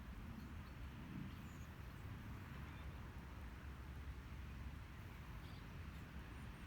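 Quiet outdoor ambience: a steady low rumble under a soft hiss, with a few faint, brief, high bird chirps scattered through.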